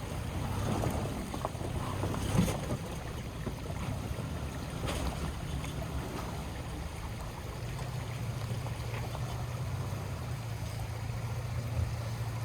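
Off-road vehicle running slowly along a trail: a steady low engine drone with wind noise and a few short knocks.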